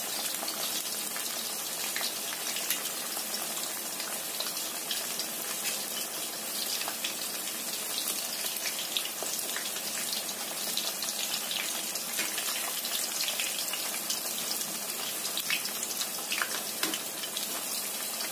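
Sliced tempe deep-frying in hot oil until golden: a steady sizzle with scattered crackling pops.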